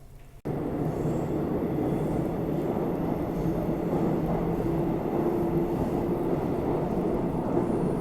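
Steady rumble of a moving vehicle, cutting in abruptly about half a second in.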